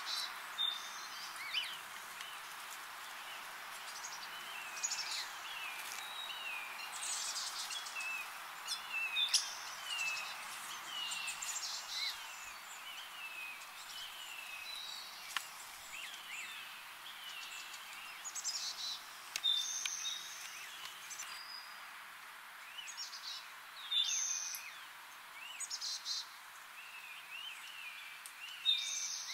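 Wild songbirds chirping and calling throughout, in many short high notes, a lot of them sliding downward in pitch, over a steady background hiss.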